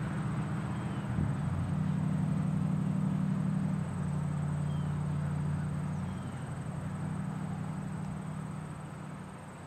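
Norfolk Southern double-stack intermodal freight train rolling away, a steady low diesel drone with a few small shifts in pitch, fading near the end as the train recedes.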